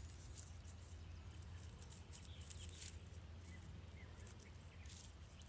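Faint rustling and light clicks of leaves being handled and laid on the ground, over a steady low outdoor rumble.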